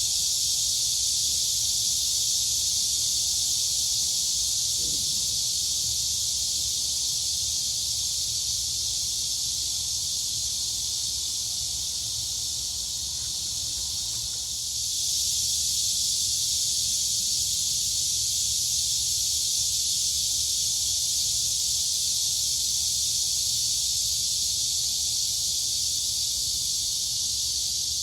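Dense, unbroken chorus of crickets and cicadas, heard as a high shrill hiss over a faint low rumble. It dips slightly about twelve seconds in and swells back a few seconds later.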